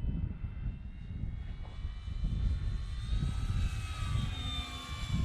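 Electric brushless motor and propeller of a Dynam Hawker Hurricane RC warbird in flight, a steady whine that swells and falls in pitch about three seconds in as the plane passes. Gusty wind rumbles on the microphone underneath.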